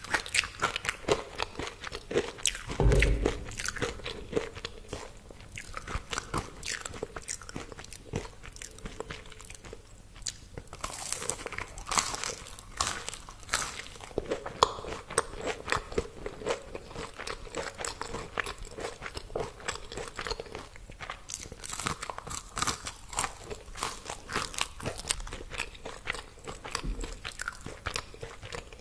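Crunching and chewing of crispy deep-fried food: a dense run of crisp bites and crackles, with a dull thump about three seconds in.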